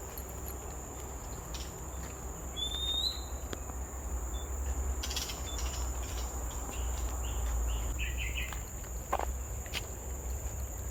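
A wild bird giving a few whistled notes, one of them a rising whistle, over a steady high-pitched insect drone and a low rumble.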